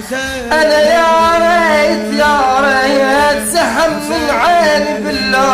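A solo voice singing a mournful Shia lament for Hussein in Arabic, drawing out long ornamented notes that waver and slide, over a steady low drone.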